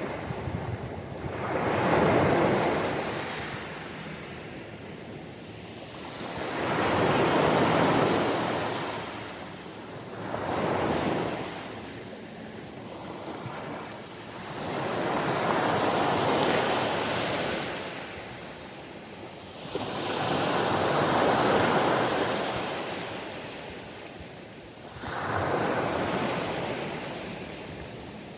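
Ocean waves breaking on a shore, six in turn, each swelling into a rushing hiss and then fading before the next one comes in.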